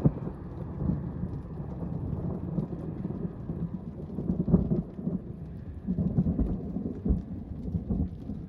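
Thunder rumbling in a thunderstorm, swelling and fading several times, with rain falling.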